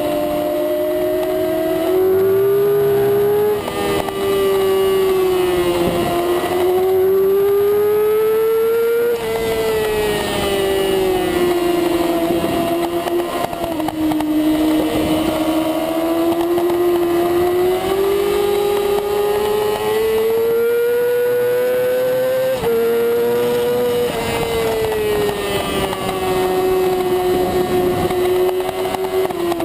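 Supersport race motorcycle engine at high revs heard from onboard over wind noise, its pitch climbing and falling through the corners, with three sudden drops in pitch at gear changes.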